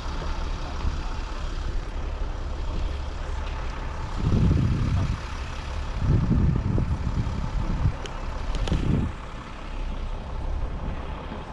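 A steady low rumble, with three louder rumbling surges about four, six and eight and a half seconds in.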